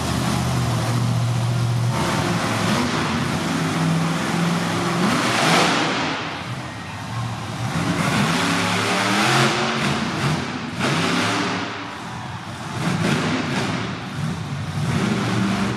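Monster truck engine revving hard in repeated surges, the pitch climbing and falling as the throttle is opened and closed.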